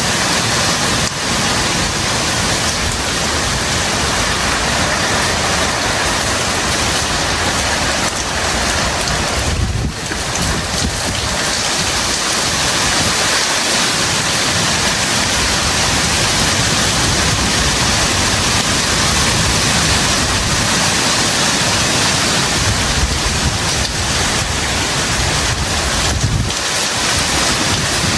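Heavy tropical rain pouring steadily, with wind gusting across the microphone as an uneven low rumble.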